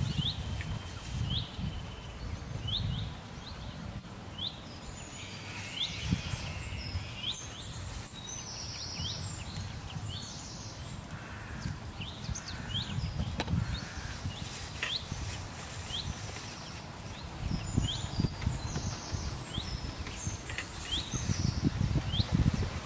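A bird repeating a short chirp every second or so, over a low, uneven rumbling noise.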